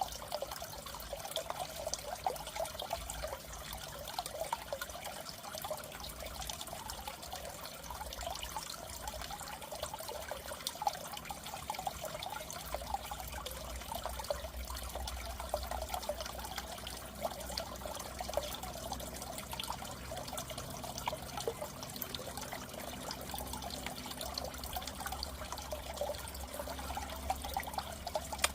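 Water trickling and splashing steadily in a goldfish aquarium, with a low hum underneath that grows a little stronger about halfway through.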